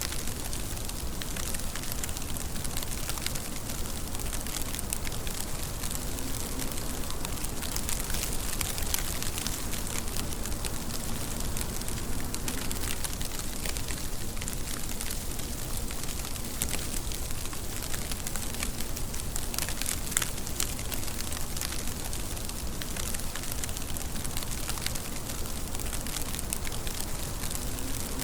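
Steady rain falling, a dense even hiss of drops with many small sharp ticks of individual drops striking a surface.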